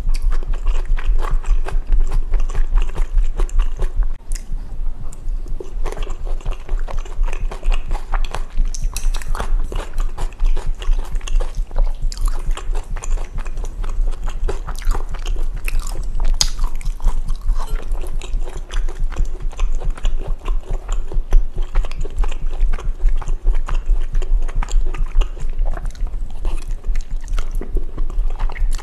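Close-up chewing and eating sounds of spicy jajangmyeon with Chinese glass noodles: many small wet clicks and bites. Under them, a steady low thump of the eater's own heartbeat is picked up by the microphone.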